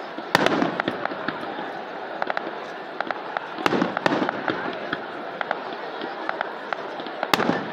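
Fireworks display: a continuous crackle of many small pops, with loud shell bursts about a third of a second in, twice around three and a half to four seconds in, and again near the end.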